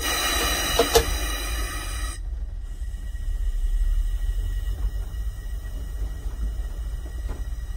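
Railcar train running along the line, heard from the driver's cab of its trailer car: a steady low rumble, with a burst of hiss and a click in the first couple of seconds.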